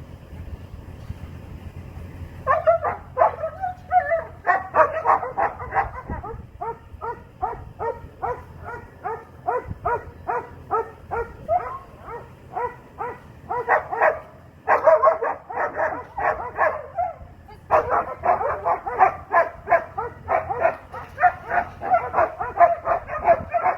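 Young Doberman barking in rapid, sustained runs of short, fairly high-pitched barks, about two to three a second, starting a couple of seconds in and breaking off briefly twice.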